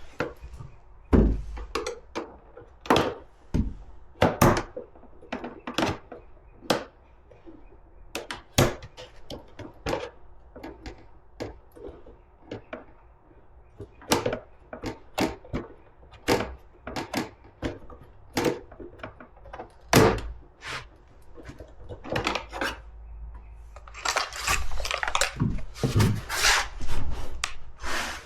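Hand tools and loose hardware clicking and knocking against the plastic panels and frame of a Razor MX650 electric dirt bike during disassembly: scattered sharp clicks and knocks, with a quicker run of clicks near the end.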